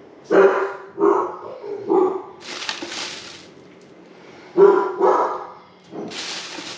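A dog barking, five short barks in two groups, with a hissing sound twice in between.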